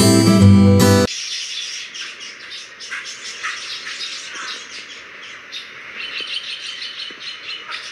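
Acoustic guitar music cuts off abruptly about a second in. It is followed by small birds chirping busily, many short chirps over a faint steady hiss.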